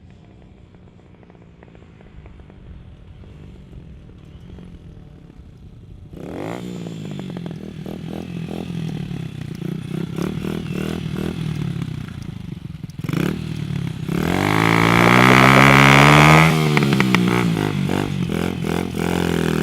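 Hartford HD 125 motorcycle with a Skyteam 200 cc engine and a Leo Vince stubby sport exhaust, faint at first, then much louder from about six seconds in as it accelerates with rising and falling revs. It is loudest a little past the middle, where the engine pitch drops sharply, as in a fly-by.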